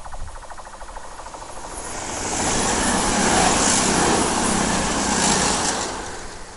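A CrossCountry Voyager diesel-electric multiple unit passes close by: the rush of engines and wheels on rail swells over about two seconds, stays loud for about three seconds, then fades quickly as the train goes by.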